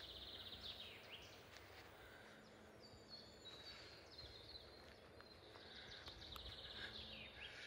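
Faint birdsong from several small birds in the forest: fast trills and quick, descending whistled notes, over a low rumble.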